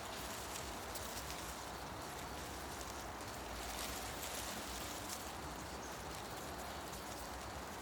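Wind moving through tree leaves, a steady rustling wash with small crackles of leaves brushing together.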